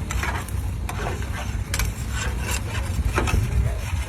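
Heavy tractor engine running with a steady low rumble, irregular clicks and rattles over it.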